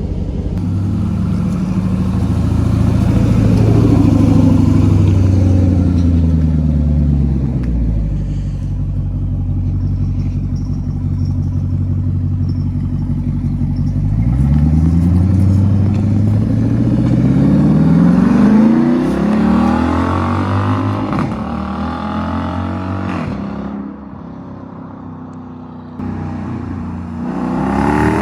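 Straight-piped 6.4-litre 392 Hemi V8 exhaust of a Jeep Grand Cherokee SRT. The engine pulls up through the revs and eases off twice, then drops to a quieter, steadier run and climbs again near the end.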